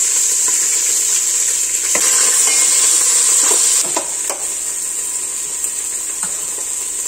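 Chopped greens sizzling in hot oil in a stainless steel pot while being stirred with a spatula. The sizzle is louder for the first four seconds or so, then eases a little, and the spatula scrapes against the pot a few times.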